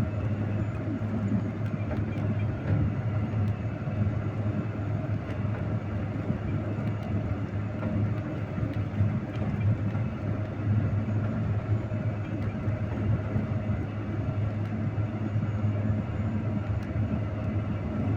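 Heavy vehicle engine running steadily under load while driving through snow, a constant low drone with rumble and rattle.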